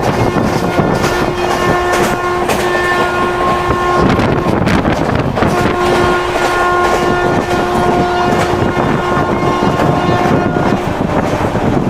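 Indian train horn sounding two long blasts, the first about four seconds and the second about five, over the rumble and rail clatter of the moving train.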